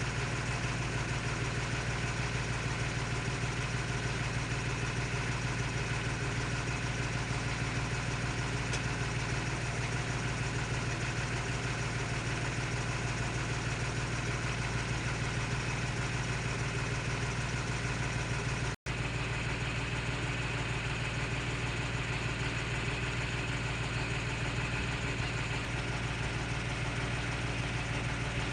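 Torpedo DT4806 Adriatic tractor's diesel engine idling steadily. The sound cuts out completely for an instant about two-thirds of the way through.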